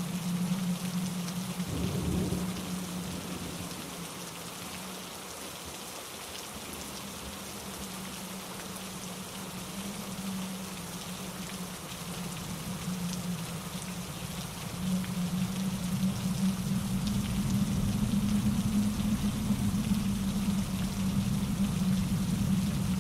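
Steady rain falling on leaves and ground, with a low rush of wind through the trees that eases off a few seconds in and swells again about two-thirds of the way through.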